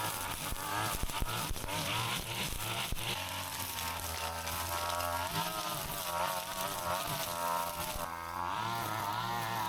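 Brush cutter's small two-stroke engine running as a high buzzing whine, its pitch rising and falling as the throttle and load change. Scattered short clicks in the first few seconds.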